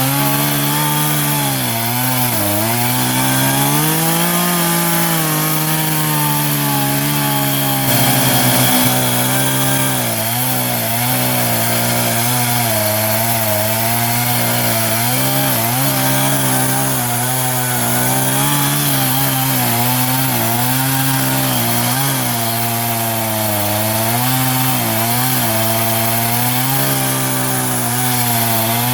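Chainsaw running at high revs under load in a homemade mini Alaskan chainsaw mill, ripping lengthwise along a log with a regular cross-cut chain. The engine note wavers up and down continuously as the chain bogs and recovers in the cut.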